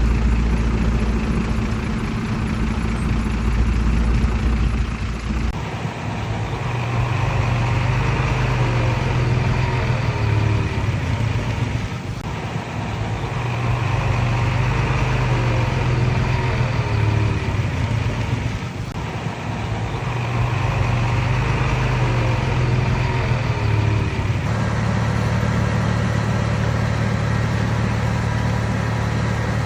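Komatsu D31PX bulldozer's diesel engine running, its note swelling and easing in repeated cycles about every six to seven seconds, with short squeaky glides in each cycle, before settling to a steady note near the end.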